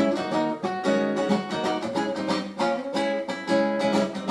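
Guitar strummed in a steady rhythm, playing the instrumental close of a song after the vocals have ended.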